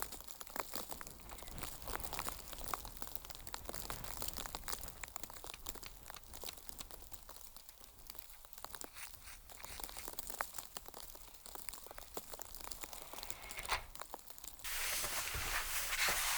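Irregular small crunches and crinkles, as of something being handled close by. About fifteen seconds in, a steady hiss starts and is louder than the crunching.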